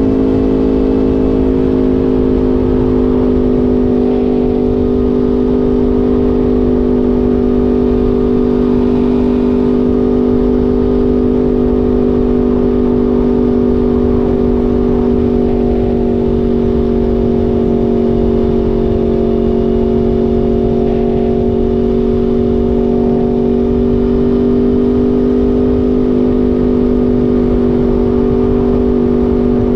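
Aprilia Tuono V4 motorcycle's V4 engine running at a steady, held engine speed, its note barely changing, with wind noise underneath.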